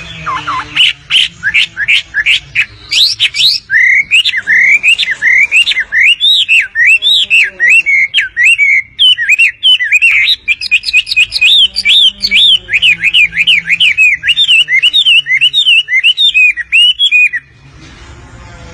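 Wambi bird singing vigorously: a long, fast run of loud, quick chirping notes, each sweeping up and down in pitch. It stops abruptly about a second before the end.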